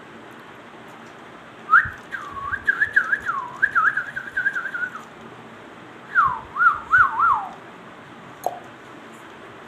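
A parrot whistling: a run of quick up-and-down whistled notes lasting about three seconds, then a shorter run of about a second and a half, and one brief note near the end.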